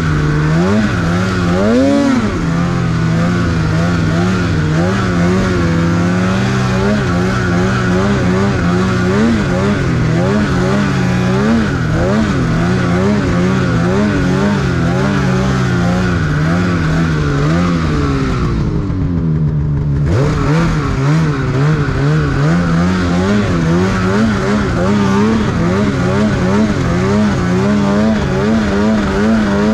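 Snowmobile engine running under throttle, its pitch wavering up and down as the revs change. A little past halfway the revs fall off briefly as the throttle is let off, then climb again.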